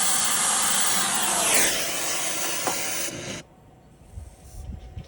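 Brazing torch flame hissing steadily on a copper refrigerant joint, its tone sweeping down briefly about a second and a half in, then cutting off abruptly a little past three seconds in as the torch is shut off or pulled away.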